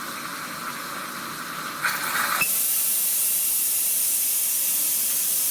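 Car fuel injectors spraying on an injector flow-test stand, a steady hiss of atomised test fluid. About two and a half seconds in the hiss turns suddenly louder and higher.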